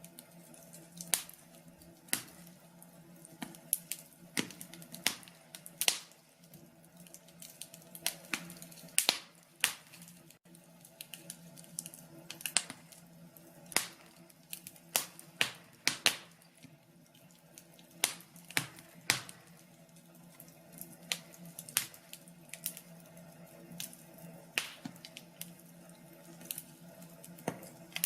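Wood fire crackling: irregular sharp pops and snaps, about one or two a second and uneven in loudness, over a faint low steady hum.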